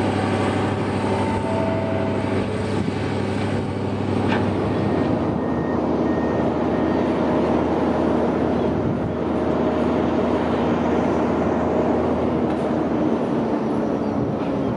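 Diesel railcar train: a steady engine drone, then the rush of wheels on the rails swelling from about four seconds in as the train comes through.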